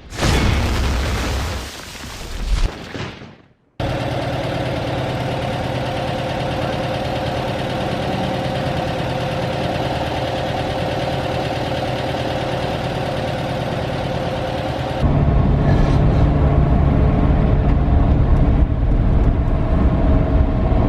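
Vehicle engine running, heard in edited segments. A loud rushing noise opens it, then a brief cut to silence, then a steady engine drone. About fifteen seconds in the drone turns louder and deeper, with a rough low throb.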